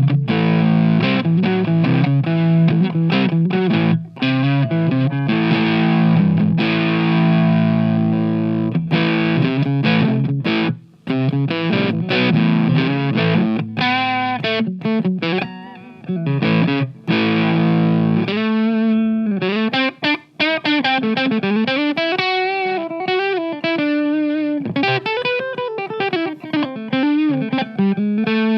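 Electric guitar played through an MXR MC402 Boost/Overdrive pedal, distorted: rhythmic strummed chords for about the first eighteen seconds, then single-note lead lines with string bends.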